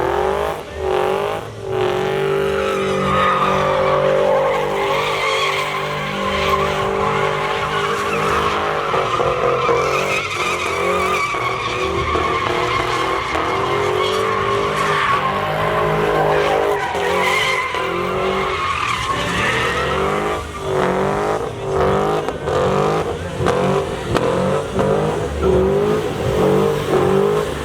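Pickup truck doing a burnout: the rear tires squeal continuously, wavering in pitch, over the engine held at high revs. The engine stutters in quick bursts over the last several seconds.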